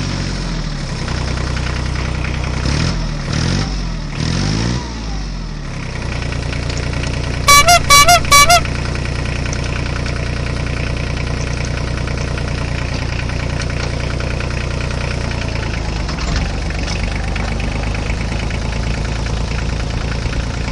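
Tractor engine running steadily, revving up and down a few times a few seconds in. Four quick, loud, wavering horn honks sound about eight seconds in.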